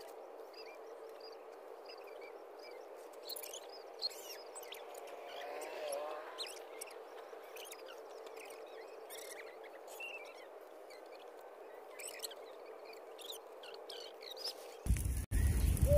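Small birds chirping faintly in many short, quick calls, over a faint steady hum.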